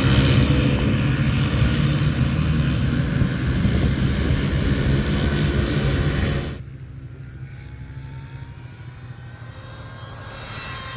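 Motorcycle engines running loudly. About two-thirds of the way in the sound cuts off abruptly, giving way to a fainter engine whose pitch climbs as it revs.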